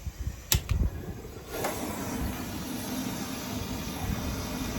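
A sharp click, then a torch flame hissing steadily with a low rumble under it as the fire starters in the charcoal are lit.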